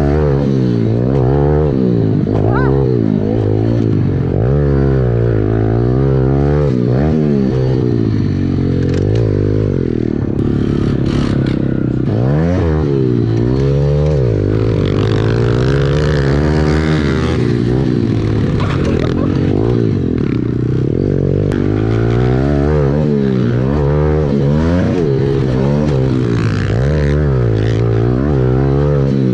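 Dirt bike engine revving hard and dropping back over and over, the pitch climbing and falling every second or two as the rider goes on and off the throttle.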